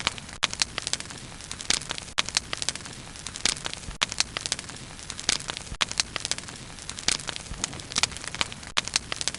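Bonfire burning, with irregular sharp crackles and pops of burning wood several times a second over a low steady hiss of flame.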